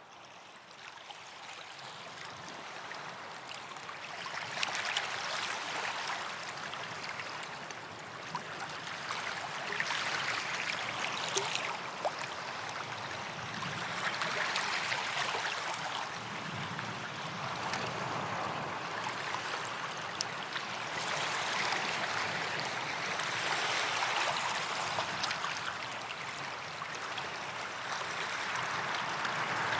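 Small sea waves washing onto a sandy beach, each surge swelling and easing every few seconds. The sound fades in over the first few seconds.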